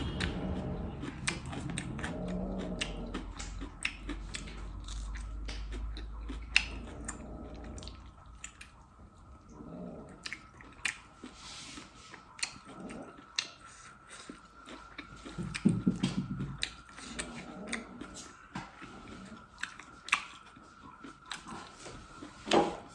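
Close-miked eating: a person biting and chewing food, with many short sharp mouth clicks and smacks scattered throughout, over a faint steady high hum.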